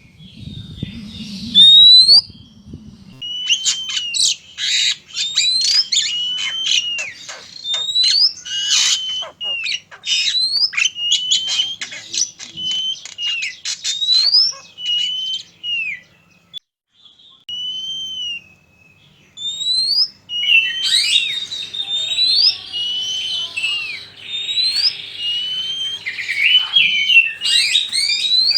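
Male and female Oriental magpie-robins (kacer) singing hard: rapid, varied whistled phrases of sharp rising and falling notes. The song thins to a few scattered notes just past halfway, then comes back dense, with a faint low hum beneath it.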